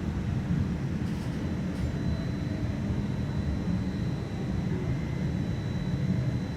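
QLine streetcar running along its track, heard from inside the car: a steady low rumble with a faint steady high whine.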